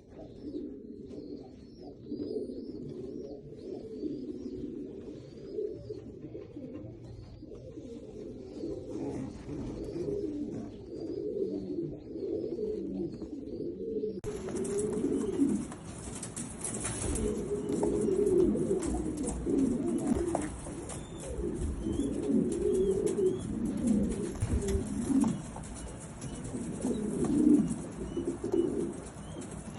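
Domestic fancy pigeons cooing over and over in low, rolling calls, with faint high chirps in the first half.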